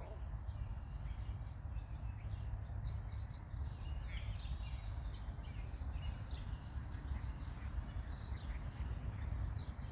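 Birds chirping and calling, short notes scattered throughout, over a steady low rumble.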